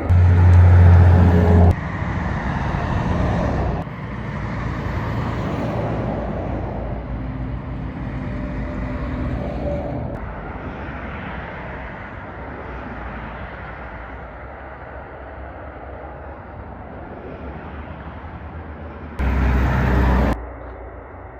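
Trucks and other road traffic passing, in short clips joined by abrupt cuts. A loud, low engine drone comes in the first second or two and again briefly near the end, with quieter tyre and road noise in between.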